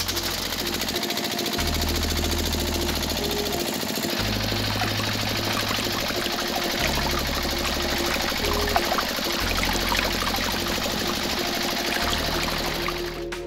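Water pours steadily from the spouts of a miniature model filling machine into small metal toy buckets, while the machine's small pump motor runs. Background music plays underneath.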